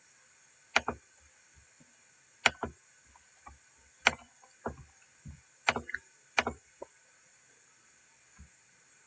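A series of sharp knocks and clicks at irregular spacing, about eight in all, several followed a moment later by a quieter second tap.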